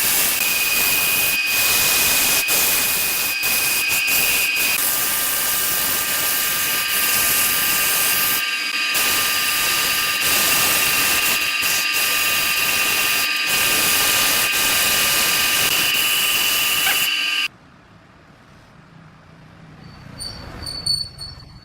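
Wood lathe running with a steady motor whine while a turning tool cuts the spinning wood, a loud continuous hiss. It breaks off briefly a couple of times, then stops suddenly near the end and goes much quieter.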